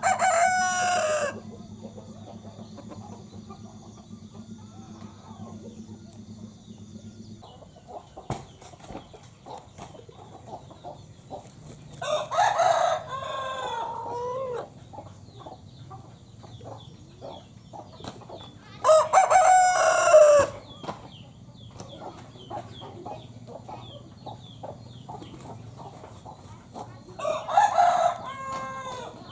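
Broiler rooster crowing four times, each crow lasting one to two and a half seconds, with several seconds of quiet between them.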